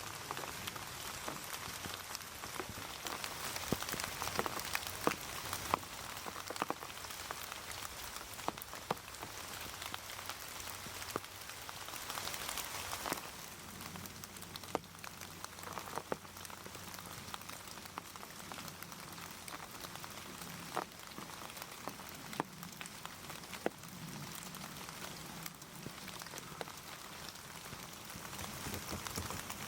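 Steady heavy rain falling, with frequent sharp individual drops hitting close by.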